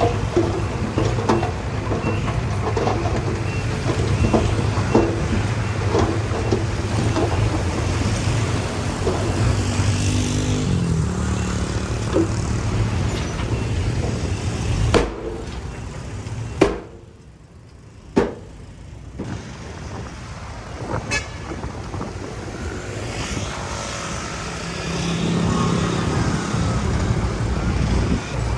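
Heavy diesel earthmoving machinery running, with a steady low engine hum and scattered clanks and knocks. Around the middle the sound drops away briefly between two sharp knocks, then the engine comes back and grows louder near the end.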